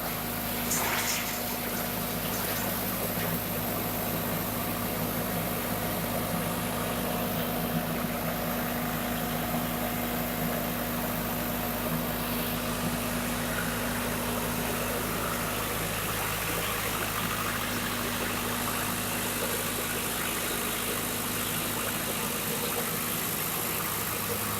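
Diesel engine of a drum wood chipper running steadily with an even hum, with no change in speed or load; a couple of faint clicks about a second in.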